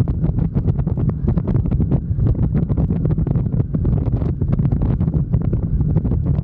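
Wind buffeting and rushing across the microphone of a moving motorcycle, over a steady low drone from the bike and road.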